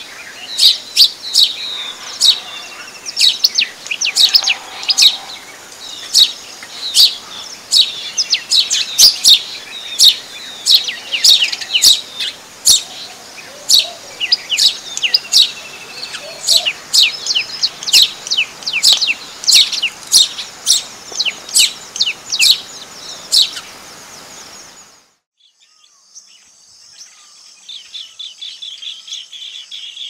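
Small songbird chirping over and over, sharp high chirps about two a second, stopping abruptly near the end. A faint fast trill follows.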